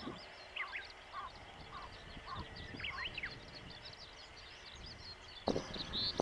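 Small birds chirping and singing outdoors, a dense stream of quick high chirps with a few short rising whistles over a faint background. Near the end a louder low noise sets in.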